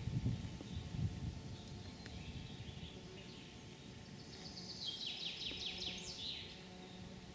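A songbird sings one fast phrase of rapid notes sliding downward, about five seconds in, over steady outdoor background noise. A low rumble is heard in the first second.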